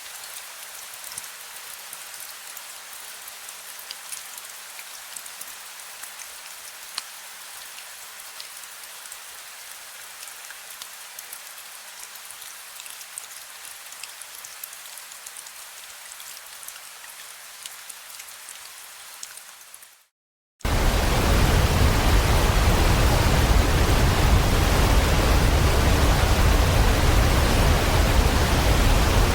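Steady rain with scattered individual drops ticking. About two-thirds of the way through it cuts out for a moment, and a much louder, steady rushing noise with a deep low end starts abruptly.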